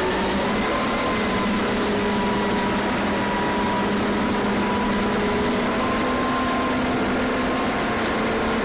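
Engine running steadily under a broad hiss, with several steady tones that drift slightly in pitch.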